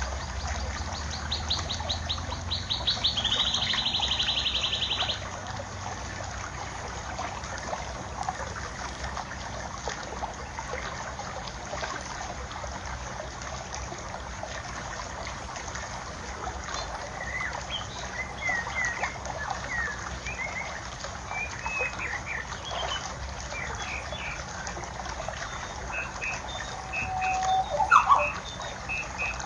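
Steady trickling of water with birds chirping over it. A loud, fast high trill runs for the first few seconds, scattered short chirps follow, and a quick series of repeated high notes and one brief louder call come near the end.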